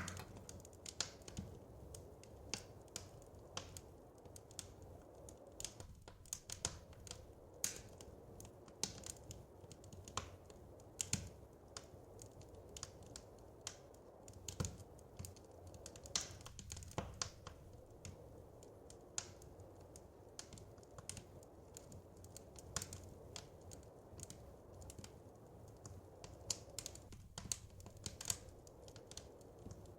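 Fireplace fire crackling: irregular sharp pops and snaps, a few louder than the rest, over a low steady rumble.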